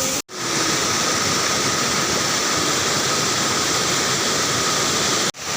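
Steady rushing of a waterfall, cut off abruptly once just after the start and again near the end.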